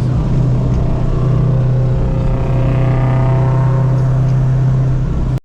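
Car engine running with a steady low drone. A higher engine note swells and fades in the middle, like a car going past. The sound cuts off abruptly just before the end.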